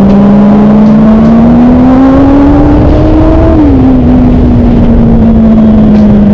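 Kawasaki ZX25R's 250 cc inline-four engine running at high revs. Its pitch climbs slowly, falls back suddenly about three and a half seconds in, then holds steady.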